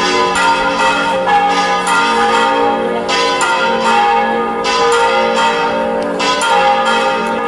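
Church bells ringing a peal: strokes about two a second, each leaving a lasting ringing tone, so the bells overlap into one continuous sound.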